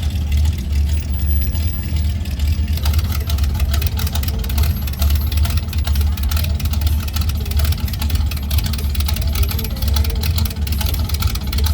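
Classic car engine idling close by: a steady deep rumble. From about three seconds in, a crackly hiss joins it.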